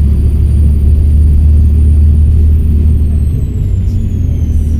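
Volvo B7RLE bus's seven-litre six-cylinder turbodiesel running, a steady low drone, with a thin high turbo whistle that falls in pitch from about three seconds in.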